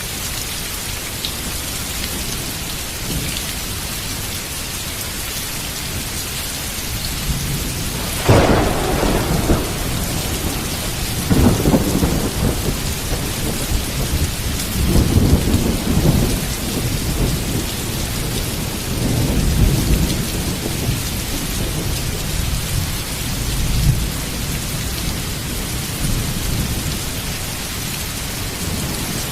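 Heavy rain falling steadily. About a quarter of the way in a sudden thunderclap breaks, followed by rolling thunder that rumbles on and off for several more seconds.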